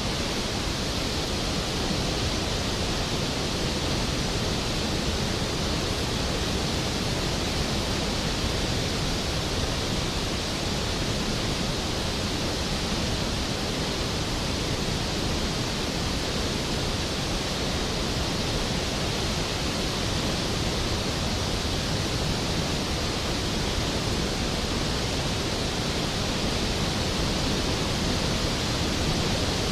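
Skógafoss waterfall: a large waterfall's steady, unbroken rush of falling water.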